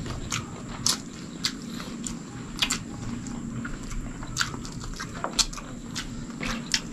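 Close-up chewing and wet mouth clicks of people eating rice and stewed chicken with their hands: irregular soft smacks, one or two a second.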